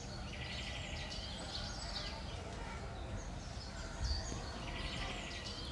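Faint songbird chirps and whistles, with a short buzzy trill heard twice, over a low steady background hum; a soft knock about four seconds in.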